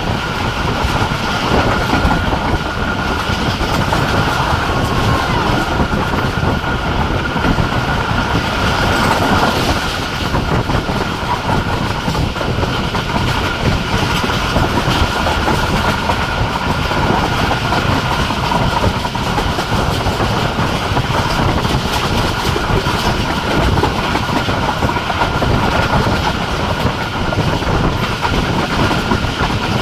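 Jaffar Express passenger train running at speed: continuous wheel-on-rail noise with a clickety-clack over the rail joints and a thin, steady high tone throughout.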